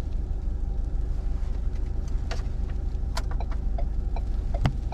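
Car engine idling steadily, heard from inside the cabin of a parked car, with a few short clicks about two, three and four and a half seconds in.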